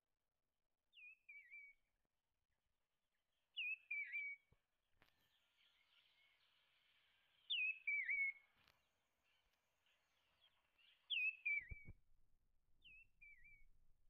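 A small songbird calling the same short phrase five times, a few seconds apart: a clear whistle sliding down, then a quick wavering trill. The three middle calls are loudest; the first and last are fainter.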